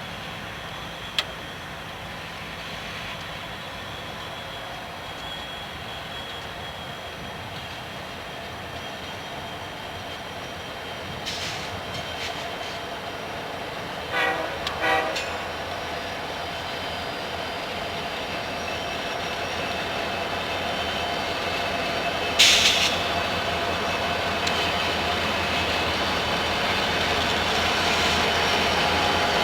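Freight train approaching and running louder as it comes on, with two short horn toots about halfway in.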